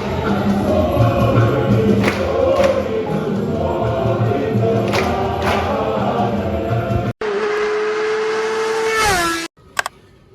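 A choir singing, cut off suddenly about seven seconds in; a single held note follows, slides down in pitch and stops abruptly about two seconds later.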